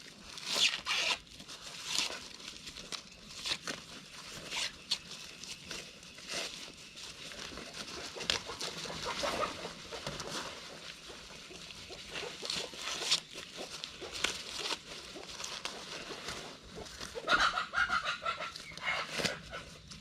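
Chickens clucking, with a quick chattering run near the end, over a scatter of sharp crackles and rustles like dry corn leaves and husks being handled.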